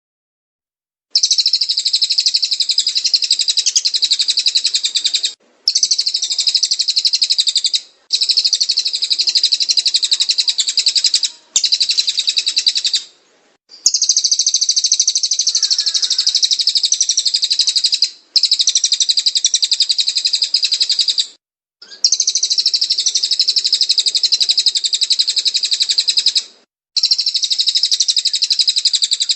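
Cililin song: rapid, high, dense chirping in long phrases of several seconds, broken by short pauses. It starts suddenly about a second in, after silence.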